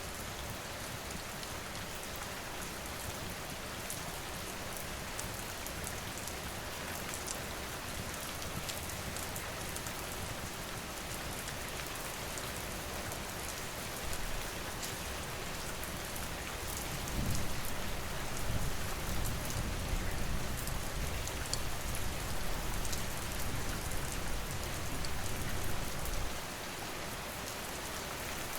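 Steady rain falling, with scattered sharp crackles. About halfway through, a low rumble swells for several seconds, then drops away.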